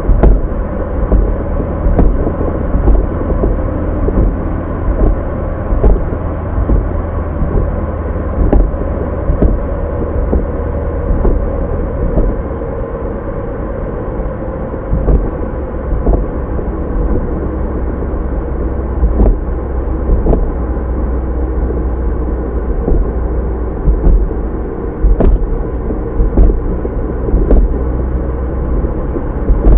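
Car driving, heard through a dashcam microphone: a steady low rumble of road and engine noise with a faint steady hum, and light knocks every second or so.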